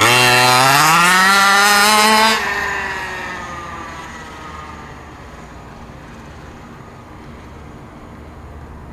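Small two-stroke engine of an HPI Baja 5b RC buggy at full throttle, its note climbing in pitch for about two seconds. About two and a half seconds in it drops sharply in level, then fades away as its pitch slides down.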